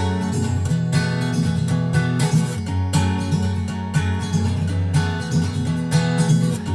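Background music: an acoustic guitar arrangement, plucked and strummed chords at a steady pace.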